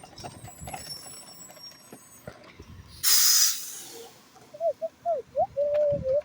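Short burst of compressed air hissing from a recycling truck's air brakes about three seconds in, loud for about half a second and then tailing off.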